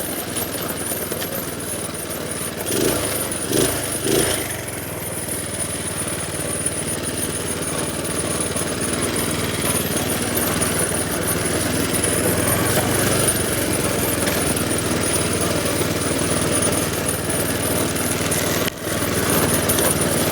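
Minibike's small single-cylinder engine running steadily while being ridden, a rapid chattering drone that grows a little louder through the first half. Near the end there is a brief dropout.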